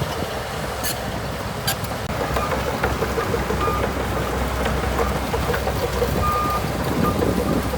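Bulldozer's diesel engine running steadily with clanks from the machine, two sharp knocks about a second in, and a few short high beeps later on.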